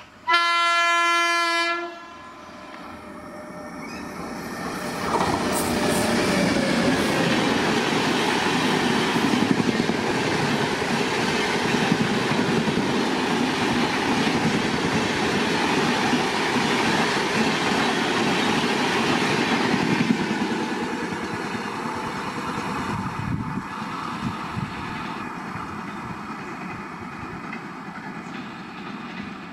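Electric locomotive sounds one long horn blast as it nears, then the train passes at speed: a heavy rush of wheels on rail with clickety-clack that builds, holds for about fifteen seconds and slowly fades as the coaches go by.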